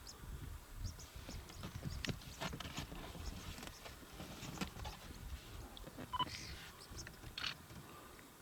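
Irregular soft footfalls and rustling of an approaching animal, with a brief high chirp about six seconds in.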